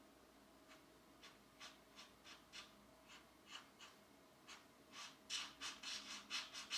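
Pencil strokes on a coloring book page, faint single scratches at first, then quicker and louder back-and-forth strokes over the last two seconds.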